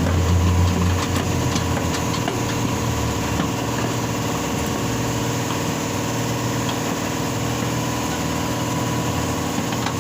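An engine or motor running steadily at idle, a constant drone that is louder at first and settles about a second in, with a few faint light clicks.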